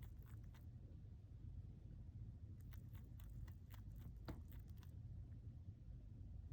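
Near silence: a low room hum, with a scatter of faint, light clicks in the middle.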